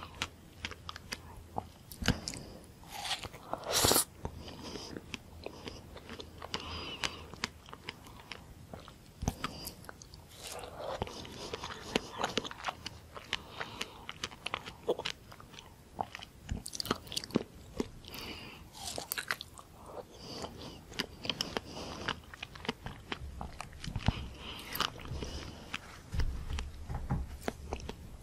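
Close-miked eating of red dragon fruit topped with whipped cream: soft bites and wet, smacking chewing of juicy fruit flesh, with one louder bite about four seconds in.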